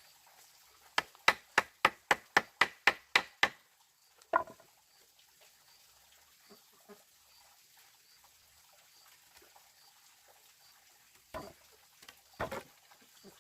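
A quick, even run of about ten sharp strikes on wood, about four a second, then a single knock a second later and two more knocks near the end.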